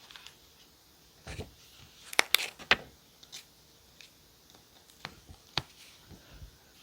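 Stationery being handled on a desk while journaling: a soft thud, then a quick cluster of sharp clicks and taps about two seconds in, and a couple of single clicks later, with faint paper rustling between.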